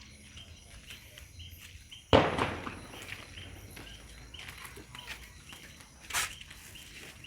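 Crickets chirping steadily, broken by a sudden loud bang about two seconds in and a sharper, shorter crack a few seconds later.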